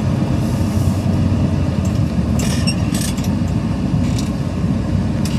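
Steady low road and wind rumble inside a moving car at highway speed, with a couple of brief hisses about two and a half and three seconds in.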